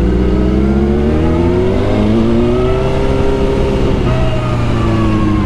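Suzuki GSX-R 1000 inline-four sport-bike engine pulling under throttle while riding. Its pitch rises for a couple of seconds, drops about four seconds in as it shifts or eases off, then sinks slowly.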